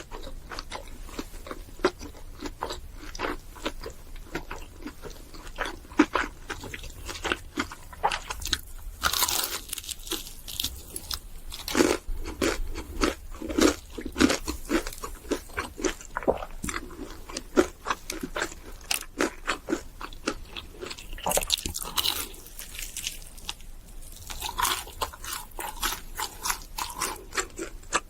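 Crunchy biting and chewing of fried food, most likely KFC fried chicken or burgers, picked up close to the mouth. Dense, irregular crisp crackles come in clusters, with louder bites scattered through.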